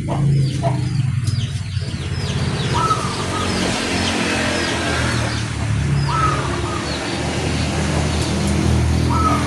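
Zebra dove (perkutut) cooing in short phrases about every three seconds, over many quick high chirps from small birds and a steady low hum.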